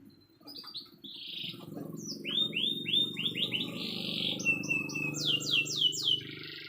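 Canary singing: a run of quick, repeated downward-sweeping chirps and buzzy trills. The notes climb higher and come in a faster series toward the end, over a low steady hum.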